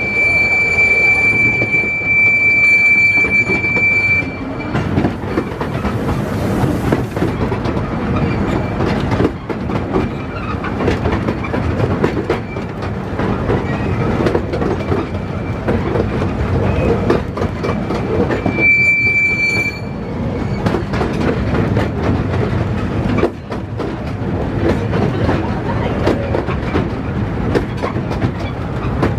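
Miniature railway train running with passengers aboard: a steady rumble with frequent clicks from the wheels on the track. A high steady squeal sounds for the first few seconds and again briefly about two-thirds of the way through.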